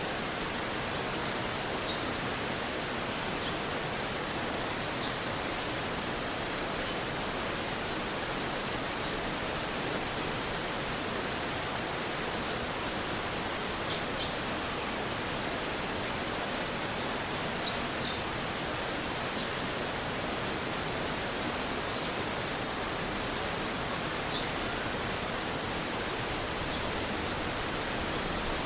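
Stream water rushing in a steady, even wash. Faint short high chirps come through every couple of seconds.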